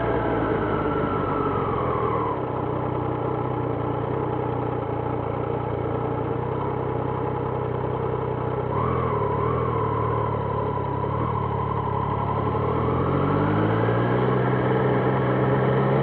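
Triumph Trident 660's inline three-cylinder engine easing off as the bike slows, running low and steady for several seconds, then revving up as it pulls away near the end.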